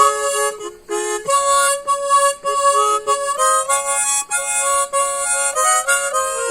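Solo instrumental music played by an amateur: a melody of held notes with chords sounding under it, the notes changing every fraction of a second.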